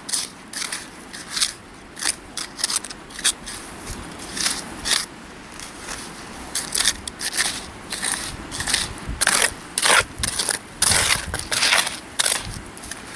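Digging a fire pit in riverbank gravel and sand: repeated crunching scrapes as the tool bites into the stony ground, coming at an irregular pace and thickest near the end.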